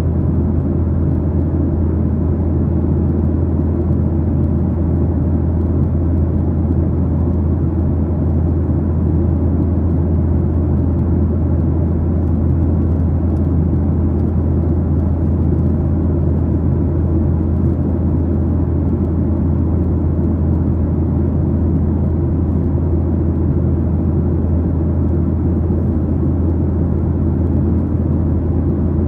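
Steady, deep drone inside the cabin of a Boeing 737-900ER in flight: its CFM56-7B engines and the airflow over the fuselage, even throughout.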